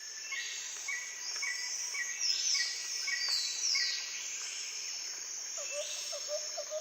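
Jungle ambience: insects buzzing in a steady high hiss, a bird chirping in a regular series a little under twice a second, and several falling whistled bird calls in the middle. A lower, softer chirping series comes in near the end.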